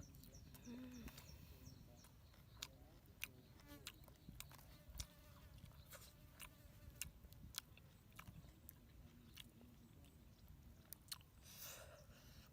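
Someone eating cooked fish, heard as faint, irregular crunching and chewing clicks, with a slightly longer crunch near the end.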